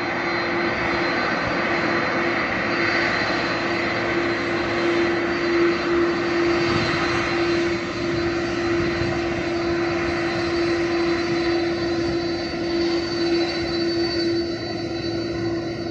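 Airbus A330-300 airliner's twin jet engines at takeoff power: a steady, loud engine noise with a constant hum and a faint high whine, the higher sound thinning near the end as the plane moves away.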